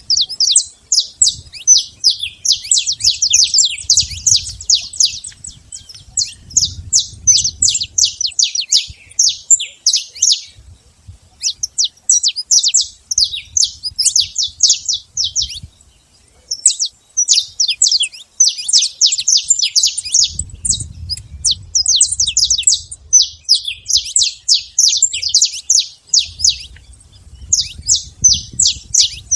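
Saffron finch singing: long runs of rapid, sharp downward-sweeping chirps, broken by a couple of short pauses.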